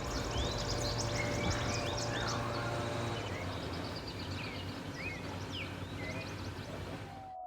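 Outdoor ambience of several birds chirping and calling, over a low steady rumble. It cuts off abruptly near the end.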